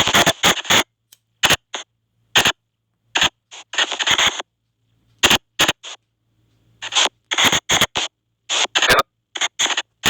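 SP White Noise box spirit-box app putting out short, irregular bursts of hiss that switch on and off abruptly, with dead silence between them.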